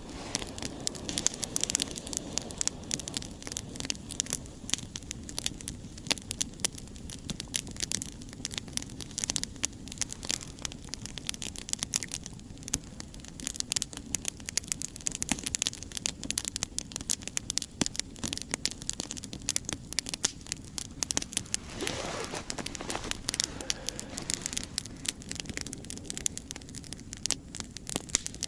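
Wood campfire crackling, with many rapid irregular pops and snaps over a steady hiss. About three quarters of the way in there is a brief, slightly louder rush of noise.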